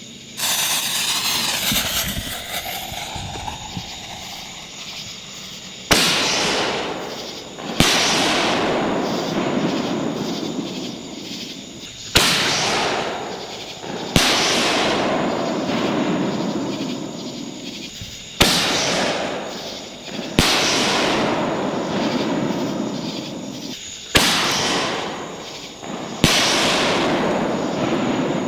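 Sun's Fireworks Illuminati 60g canister shells firing one after another from a mortar tube: each gives a sharp lift thump, then a loud burst about two seconds later, followed by a long fading rush of noise. One shell is already bursting at the start, and four more launch-and-burst pairs follow at roughly six-second intervals.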